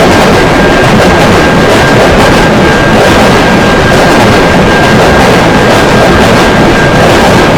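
Train passing over a city railroad crossing: loud, steady rumble and rail noise, overloading the microphone into distortion, with a steady high-pitched tone held throughout.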